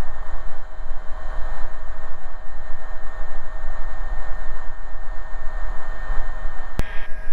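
Steady cabin noise of a single-engine AgustaWestland AW119 Koala helicopter in cruise: a constant hiss and low rumble with two steady tones running through it. A single sharp click near the end.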